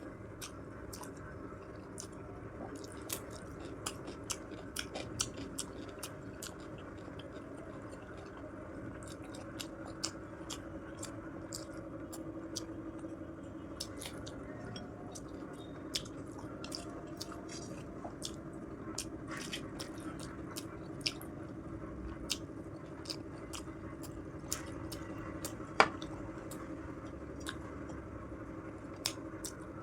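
A person chewing food with wet, smacking mouth clicks at an irregular pace, close to the microphone, over a steady low hum; one click about 26 seconds in is louder than the rest.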